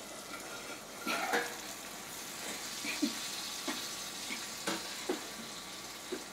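Onion, tomato and green-chilli masala sizzling steadily in a kadhai, with a clatter about a second in as the pan's lid comes off, then scattered clinks and scrapes of a metal ladle stirring it.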